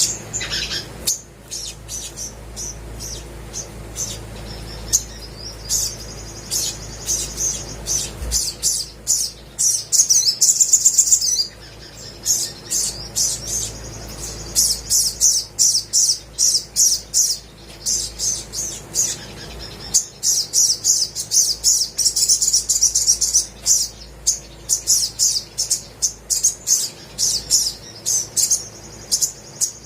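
Olive-backed sunbird singing vigorously: runs of quick, high, sharp chirps repeated again and again, with a fast, dense trill about ten seconds in.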